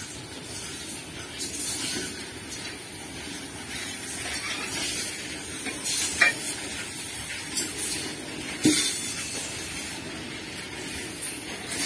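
Freight train of BOXNHL open wagons rolling past: a steady hiss of steel wheels on the rails, broken by sharp clacks a few times.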